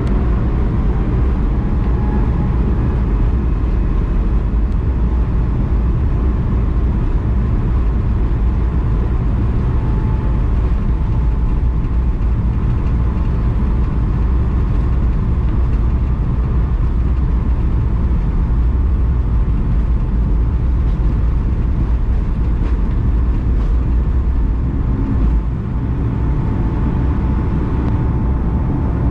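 Airbus A220-100's Pratt & Whitney PW1500G turbofan engines running steadily: a loud low rumble with a faint steady whine, not spooling up.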